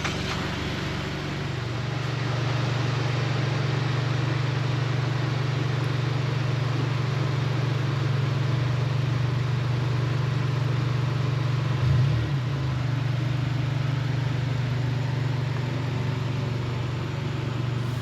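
A 2017 Honda Civic's four-cylinder engine running steadily just after being started, a low even drone with a brief change about twelve seconds in.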